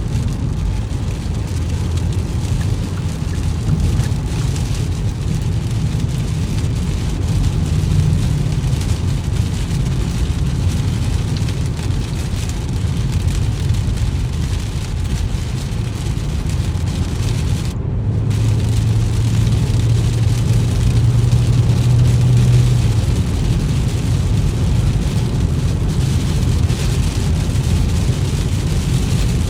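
A car driving on a road in the rain: steady low road and engine rumble mixed with the hiss of rain. A steadier low hum comes up about two-thirds of the way through and fades a few seconds later.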